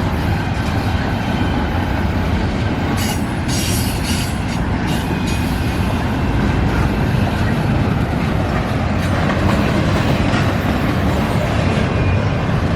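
Freight train's intermodal container cars rolling past at speed: a loud, steady rumble of steel wheels on rail, with several short high-pitched screeches, the first about three seconds in.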